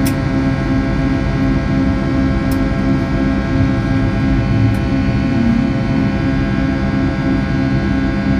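Boeing 757's Pratt & Whitney PW2000-series turbofans running at takeoff power, heard from inside the passenger cabin. A steady drone with a layer of steady whining tones over a pulsing low hum, plus a few faint ticks.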